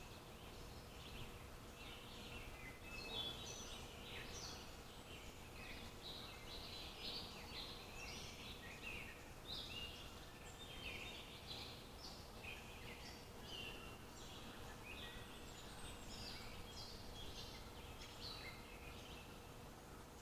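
Several birds chirping and singing in quick, overlapping calls, over a faint steady background hiss.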